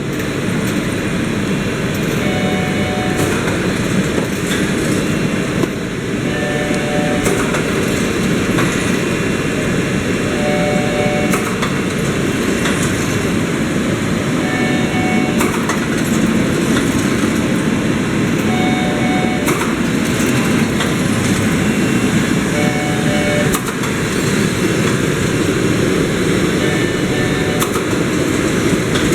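Omori Machinery S-5000A-HSR horizontal pillow-type shrink wrapping machine running: a steady mechanical rumble with light clicks recurring throughout.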